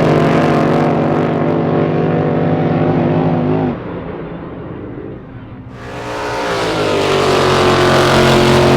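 Drag boat racing engines: a loud engine runs, then drops away abruptly just under four seconds in. After about two quieter seconds a loud engine comes back in, its pitch slowly falling.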